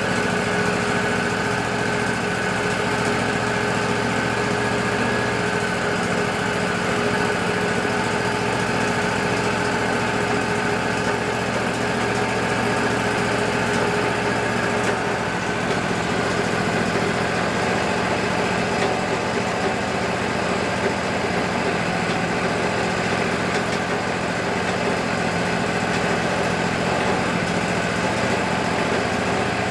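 Wood-Mizer LT40 band sawmill running steadily, its engine and band blade giving a constant drone with a high whine that shifts slightly about halfway through.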